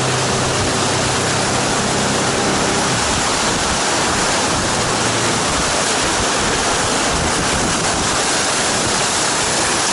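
Loud, steady rush of whitewater as a raft runs a rapid on the Colorado River. A low, steady hum under it fades out about three seconds in.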